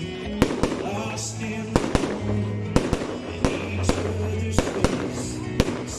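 Fireworks going off in an irregular string of sharp bangs, roughly two a second, over music with sustained low notes and a melody.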